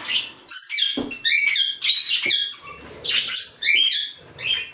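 A flock of small pet parrots, budgerigars and lineolated parakeets, chirping and calling in loud bursts about once a second, with quick rising and falling chirps. A short knock sounds about a second in.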